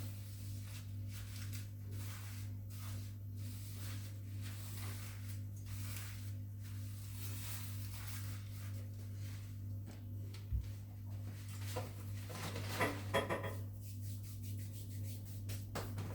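Household objects being handled during cleaning: soft rubbing and rustling, a single low thud about ten and a half seconds in and a short clatter of small knocks a couple of seconds later, over a steady low hum.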